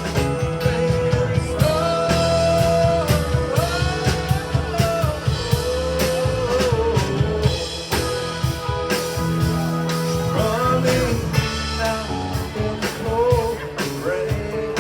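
Rock band playing: drum kit and electric guitar, with a lead melody of held notes that bend up and down over a steady bass.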